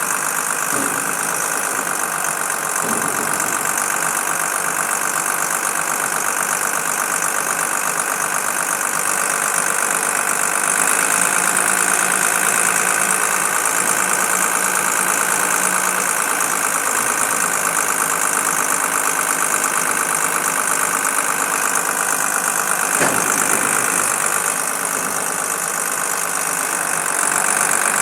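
Mitsubishi 614 diesel engine idling steadily, with a single short knock about 23 seconds in.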